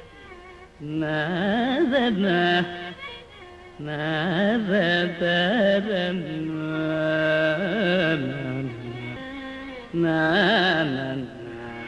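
Carnatic vocal music in raga Mohanam: a voice sings flowing phrases with sweeping, oscillating gamaka ornaments and a few held notes. The phrases are separated by brief pauses.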